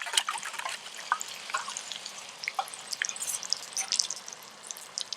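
Scattered pops and small crackles from food cooking in a pan over a wood campfire, over a faint steady hiss.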